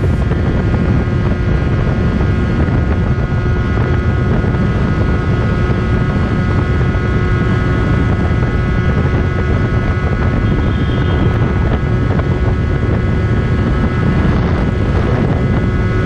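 Benelli TNT 300 parallel-twin engine with an IXIL X60 slip-on exhaust running at a steady cruise while riding, its engine note holding an even pitch, with wind rushing over the microphone.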